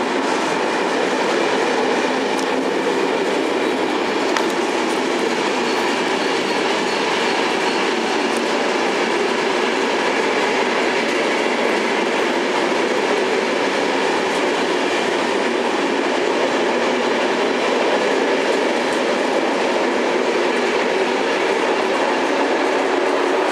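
Corail passenger coaches of a French Interloire train rolling past a station platform, a steady noise of wheels running on the rails with a few faint clicks.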